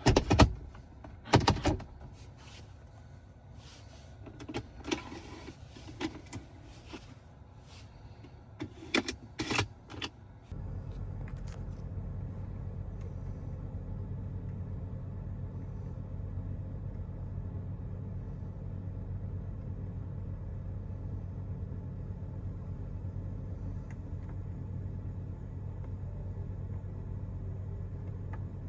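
A car's electric accessories being worked: sharp clicks and short motor whirs like power windows. About ten seconds in, a steady low hum starts suddenly and runs on evenly.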